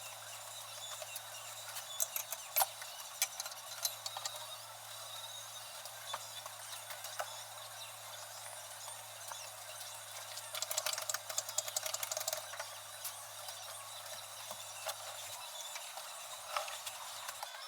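Scattered clicks and light rattles of hand tools and metal parts being handled during motorcycle brake work, in two busier clusters, over a steady low hum that stops near the end.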